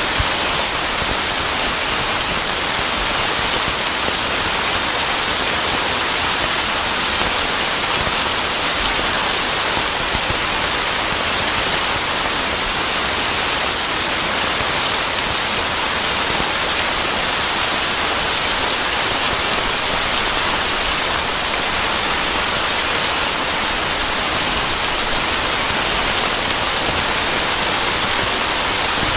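Steady heavy rain falling on a surface, an even hiss of many drops with no thunder.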